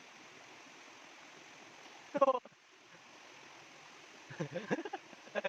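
Faint, steady rush of stream water. A short, loud, high-pitched voice call cuts in about two seconds in, and indistinct voices come in near the end.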